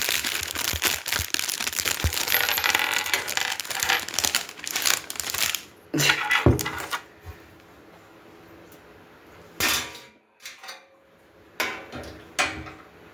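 Packaging crinkling and small metal grill parts being handled, with clinks and knocks, during assembly of a charcoal grill. It is a busy rustle for about six seconds, then a couple of sharp knocks, then quieter with a few short clatters.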